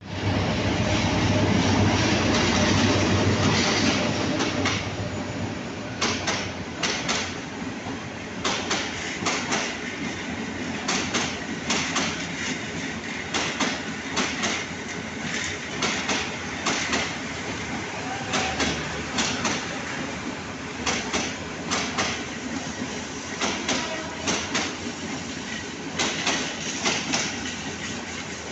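MEG15 metre-gauge diesel-electric locomotive passing close by, its engine running with a low hum that is loudest in the first few seconds. Then intercity passenger coaches roll past at low speed, their wheels clicking irregularly over the rail joints in a clickety-clack over a steady rumble.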